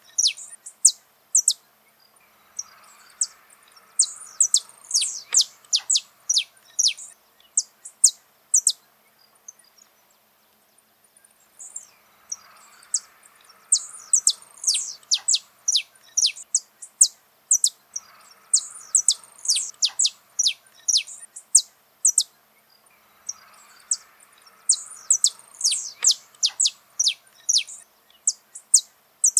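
Saffron finch singing: phrases of quick, sharp, high-pitched chirps, each lasting a few seconds, repeated with short pauses between them.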